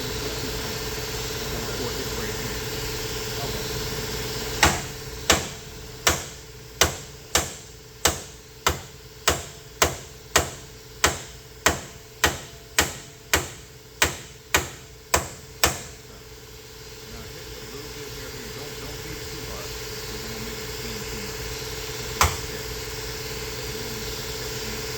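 Hammer striking car body sheet metal: a run of about eighteen sharp, evenly spaced blows, a little under two a second, then a single blow near the end. A steady machine hum runs underneath.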